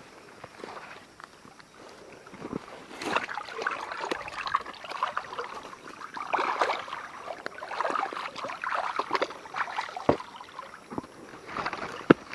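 Water sloshing and splashing in irregular bursts, with a few sharp knocks.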